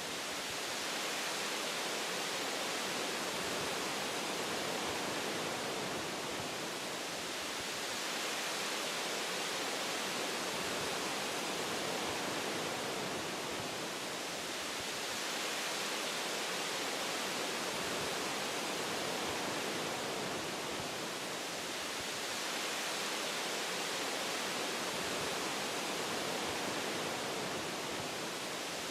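Wind through tree branches: an even, steady hiss, like white noise, that swells and eases gently every six or seven seconds.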